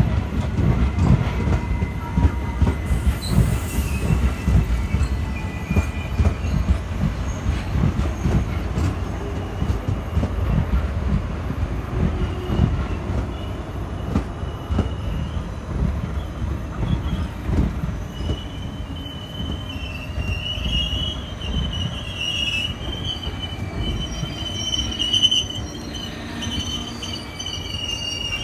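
Passenger coaches rolling slowly past, wheels rumbling and knocking over the rail joints, as an arriving train slows. From about two-thirds of the way in, a wavering high-pitched wheel and brake squeal sets in as the train draws to a stop.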